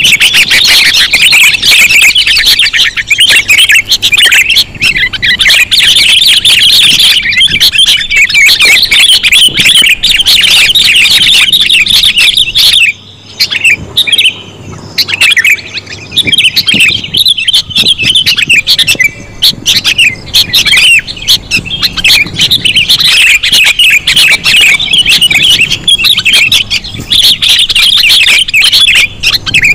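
Loud lure track of sooty-headed bulbul (kutilang) calls: dense, rapid chirping that runs almost without pause, with a short break about 13 seconds in.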